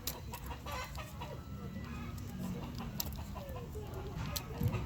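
Domestic hens clucking, with short, curving calls, over a few sharp clicks.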